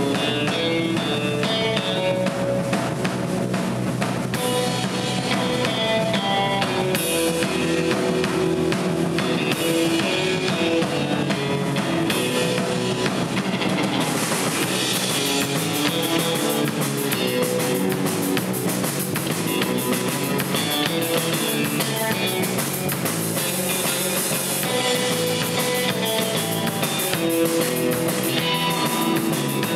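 Instrumental surf rock played live by a band: a Fender Stratocaster electric guitar carrying the melody over Fender Precision bass and a drum kit keeping a steady beat.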